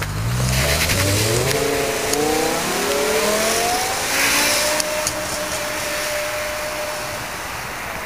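BMW M6 V10 engine accelerating hard, its pitch climbing in several quick steps through upshifts, then holding one steady note that slowly fades as the car pulls away.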